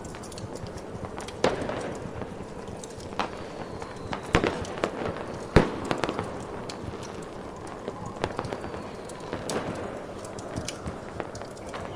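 Fireworks popping at irregular intervals, the loudest crack about halfway through, with a few faint falling whistles. Underneath is a steady hiss of ambient wind and fire.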